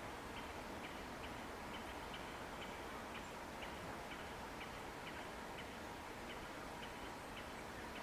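Steady outdoor ambience with a small creature, an insect or frog, calling in sharp regular ticks about twice a second over an even background hiss.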